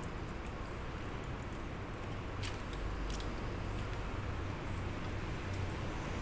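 Chewing and mouth sounds close to the microphone as leaves and salad are eaten, over a steady low background rumble, with a couple of sharp clicks a little past halfway.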